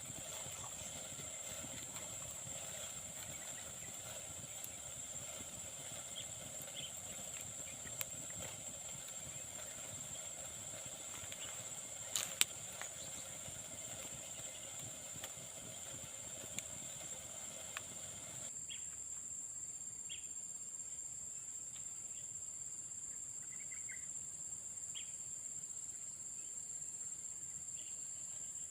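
Garden ambience dominated by a steady, high-pitched insect trill, with a few short sharp clicks around the middle. The background noise underneath drops abruptly about two-thirds of the way in.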